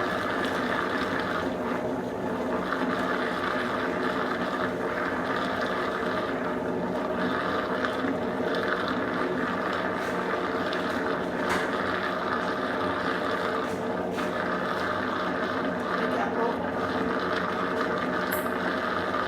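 Consul Supercargo 8 kg top-load washing machine running with a steady mechanical hum as it coasts down at the end of its spin.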